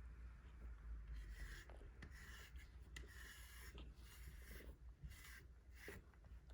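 A grooming brush stroking through a cat's fur: a run of short, raspy brushing strokes, about six or seven, starting about a second in.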